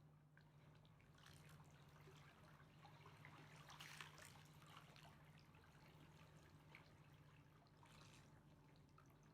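Faint river water lapping, with small irregular splashes and drips, a slightly louder splash about four seconds in, over a steady low hum.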